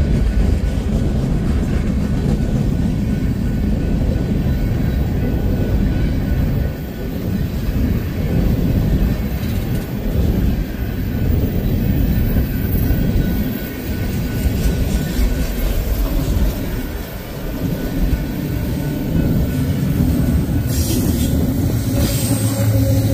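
Empty coal hopper cars rolling past close by: a steady rumble and rattle of steel wheels on the rails. Near the end, diesel-electric locomotives in the train arrive and a steady engine hum joins the rolling noise.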